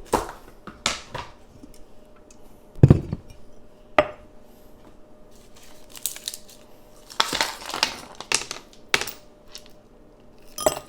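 Dishes and glassware being handled on a kitchen counter: irregular clatters and knocks, with a heavier thump about three seconds in.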